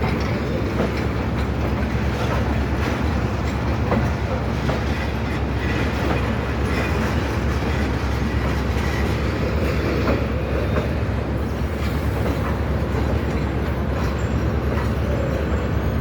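Passenger train coaches rolling slowly past, a steady rumble with the clickety-clack of wheels over rail joints.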